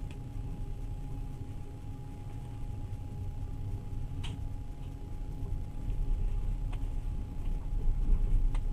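Steady low rumble of a moving passenger train heard from inside the carriage, growing a little louder about six seconds in, with three faint sharp clicks.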